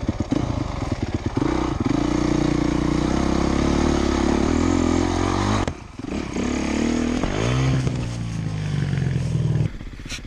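Dirt bike engine running hard under throttle, holding high revs, then briefly backing off about halfway through and revving back up before it falls away near the end.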